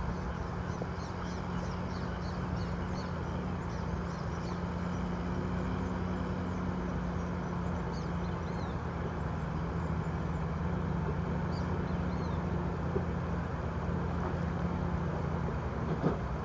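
A vehicle engine running steadily with a constant low hum, with a few faint high chirps here and there.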